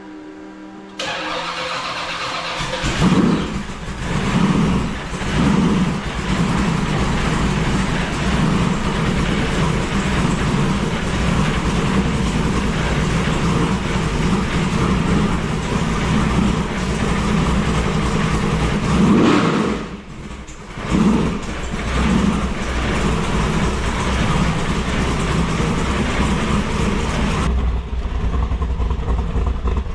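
Supercharged dual-quad big-block V8 of a 1966 Chevy Nova pro-street car starting up, blipped several times, then running loud and steady. About two-thirds through it is revved again, dips, and takes a couple more blips before settling back.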